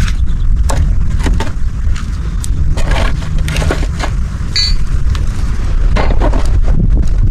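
Wind buffeting the microphone in a storm, with scattered sharp clicks and knocks and a brief squeak about four and a half seconds in.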